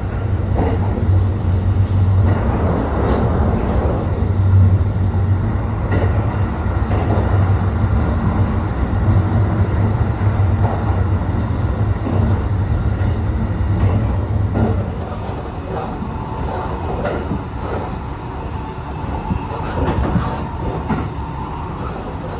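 Running noise of the Thunderbird limited express train at speed, heard inside the carriage: a steady low rumble of wheels on rail. About fifteen seconds in, the rumble drops and gets quieter.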